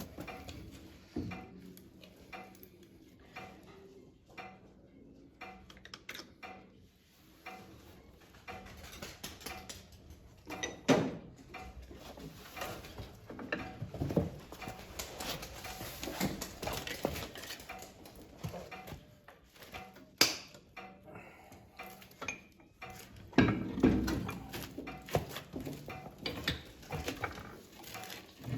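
Intermittent clinks and knocks of metal tools and parts being handled, with louder knocks about eleven seconds in and again about twenty-three seconds in.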